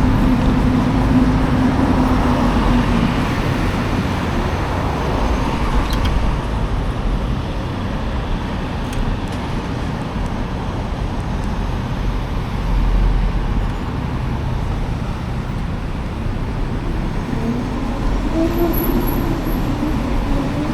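Riding noise from a Savic C3 electric motorcycle on the move: a steady rush of wind and road noise with a low rumble. A faint whine holds steady at the start and rises in pitch near the end as the bike speeds up.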